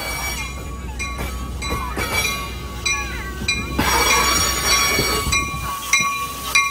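Diesel-hauled push-pull commuter train rolling slowly into the station close by, its wheels and brakes squealing briefly about three seconds in, then loud rolling noise as the cars pass. A grade-crossing bell rings throughout, its strikes plainly heard about every 0.6 s near the end.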